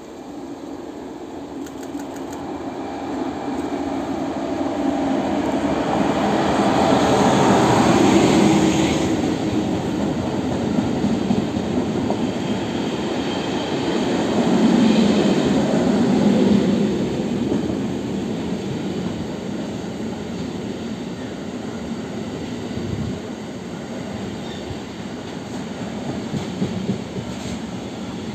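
Freight train hauled by an electric locomotive passing close by. The locomotive's approach swells to its loudest about eight seconds in. A long string of tank-container wagons then rolls by with steady wheel-on-rail noise, rising again around fifteen seconds with a faint wheel squeal.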